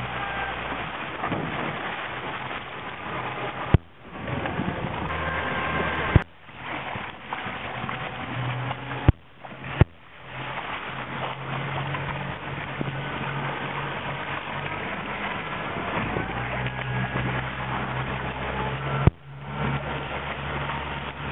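Motor boat engine running steadily at low speed over a hiss of noise. A few sharp knocks each cut the sound briefly.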